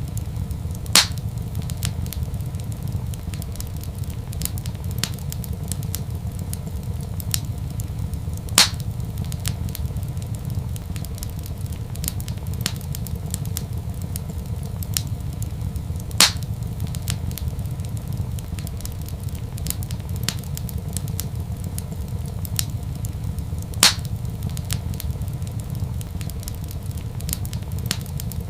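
Wood fire in a fireplace crackling, with many small faint crackles over a steady low rumble, and a sharp loud pop about every seven and a half seconds, four in all.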